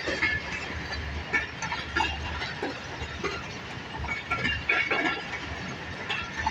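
Railway station platform ambience: a low rumble that comes and goes, under scattered short high calls, clacks and knocks.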